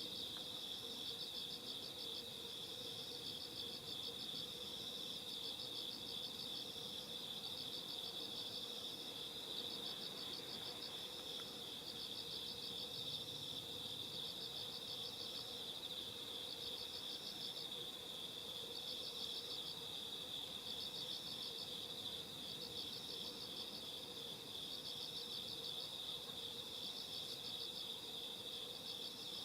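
A chorus of night insects chirping: one continuous high trill, with a second, higher trill coming in repeated phrases about every two seconds.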